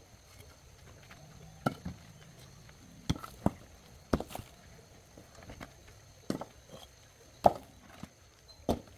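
A series of sharp knocks, about eight, irregularly spaced, some in quick pairs, against a quiet background.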